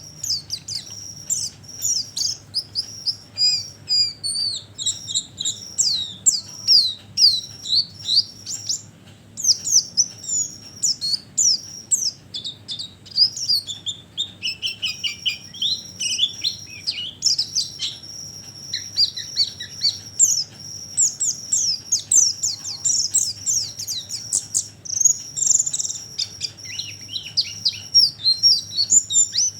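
White-eyes (pleci) chirping in a fast, busy twitter of short high notes: a lure call used to draw white-eyes in. A steady high-pitched tone runs underneath.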